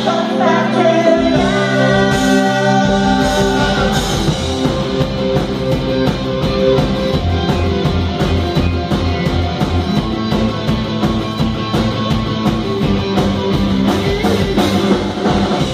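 Live new wave rock band playing a passage between sung lines, with drums, bass and guitar. The low end gets heavier about three seconds in.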